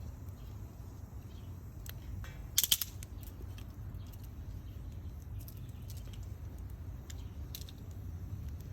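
Garden bonfire crackling, with scattered sharp pops and a loud cluster of pops about two and a half seconds in, over a low steady rumble.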